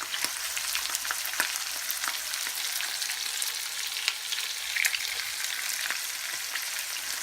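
Seasoned chicken pieces frying in a pan: a steady sizzle with scattered small crackles and pops.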